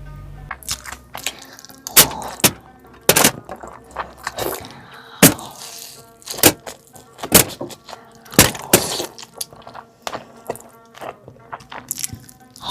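Close-miked eating: loud crunching bites and chewing, a sharp crack about once a second, over faint background music.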